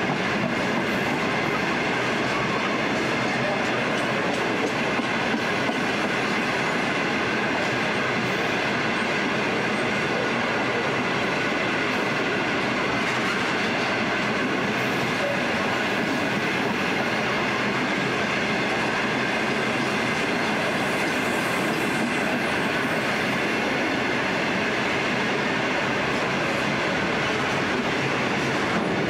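Empty grain hopper wagons of a freight train rolling past. A steady, even rumble and clatter of steel wheels on the rails, with a faint high ringing tone over it.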